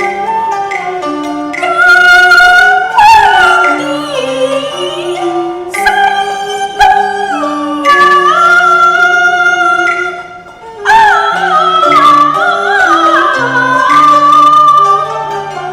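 Cantonese opera singing: a high, ornamented vocal line with wavering, sliding notes over a live instrumental accompaniment that moves in separate steps underneath. The music dips briefly a little past the middle, then the singing comes back in.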